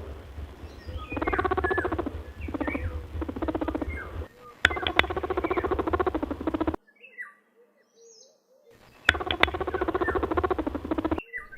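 Rabbit making buzzy, pulsed squeaking calls in three bursts, with a short quiet gap between the second and third.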